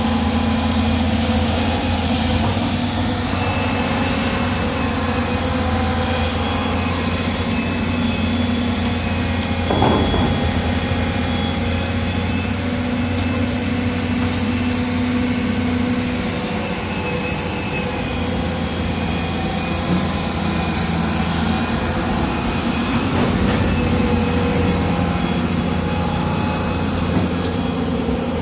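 Heavy diesel engine of a Hyundai excavator running steadily under work, with a single sharp knock about ten seconds in and a couple of lighter knocks later.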